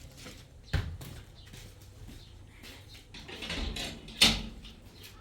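Two sharp thumps, one about a second in and a louder one near the end, with a rougher scuffling noise rising just before the second.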